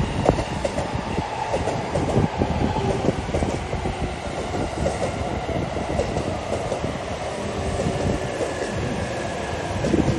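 Electric passenger train running on the tracks below, a steady rumble of wheels on rail with many small rapid knocks.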